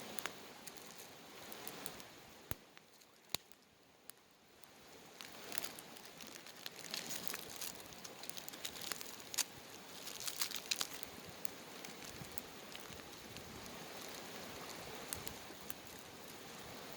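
Wood campfire burning: a steady hiss with scattered sharp crackles and pops, which come thickest around the middle.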